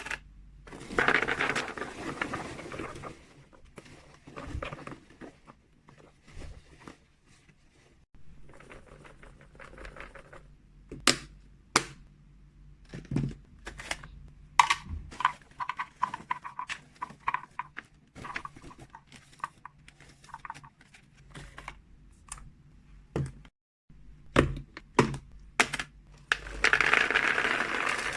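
Hands handling packaging and containers of freeze-dried cat treats: sharp clicks and taps of plastic containers and lids, with several stretches of rustling and crinkling, the longest about a second in and near the end.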